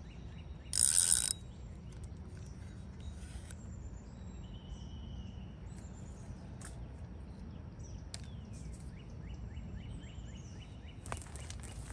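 Lakeside outdoor ambience: a steady low rumble with scattered faint bird chirps. About a second in there is a short, loud, high hiss, and near the start and again near the end there is faint, regular ticking.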